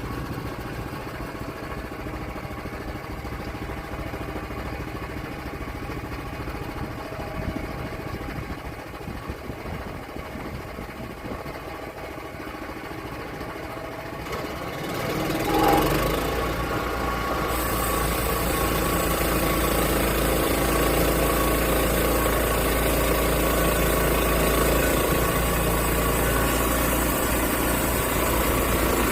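Sawmill's engine running, at first at a steady idle, then speeding up about halfway through with a brief loud surge, after which it runs steady, louder and with more hiss.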